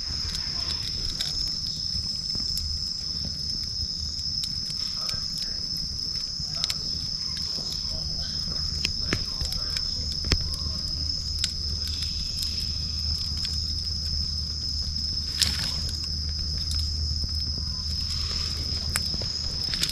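Wood campfire crackling with scattered pops, the sharpest about ten and fifteen seconds in, over a low rumble and a steady high insect trill.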